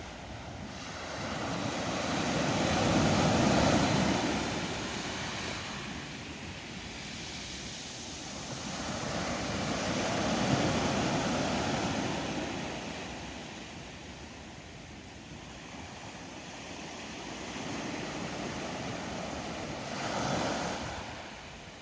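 Ocean surf washing onto a shore, swelling and fading in three slow surges: a few seconds in, around the middle and near the end.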